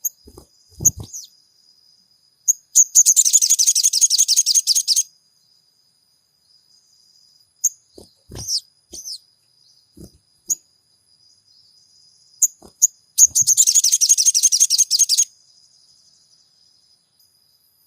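Sogon songbird calling: scattered short, sharp chirps and two loud, rapid chattering trills of about two seconds each, one a few seconds in and one late. A few brief low knocks come in between.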